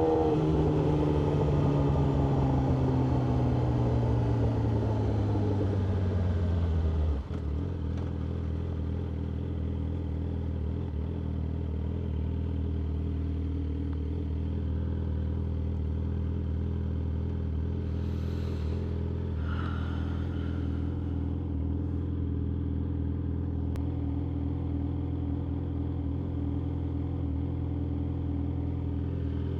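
Yamaha R6 inline-four sport bike engine, its revs falling steadily as the bike slows. About seven seconds in it drops into a steady idle that holds for the rest of the time.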